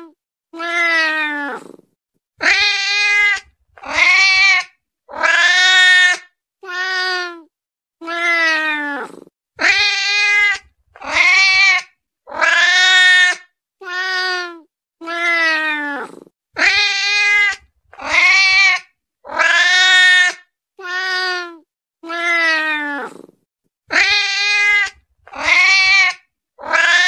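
Hungry domestic cat meowing again and again, about twenty short meows roughly one every second and a half, several sliding down in pitch at the end, with short silences between them.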